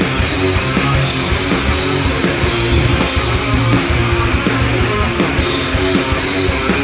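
Live rock band playing an instrumental passage: distorted electric guitars, bass and drums, with no singing.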